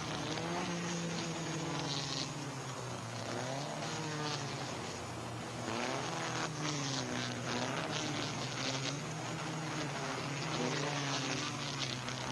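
Several small sports-car racing engines buzzing at high revs as a pack of cars accelerates away from the start. Their pitches rise and fall over and over as the drivers rev and shift gears.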